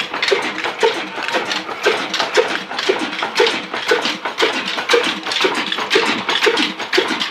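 Ruston diesel engine running steadily with a rhythmic mechanical clatter, a knock beating about twice a second.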